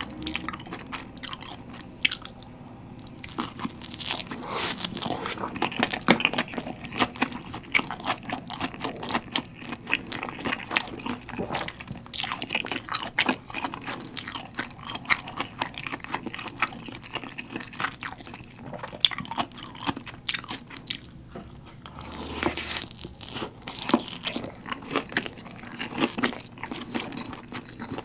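Close-miked eating sounds: biting into and chewing a slice of pizza, with crunching crust and wet mouth sounds in quick irregular clicks.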